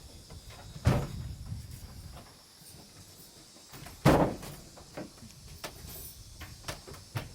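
Two heavy knocks of wood on wood, about three seconds apart, with lighter wooden taps and clicks between them.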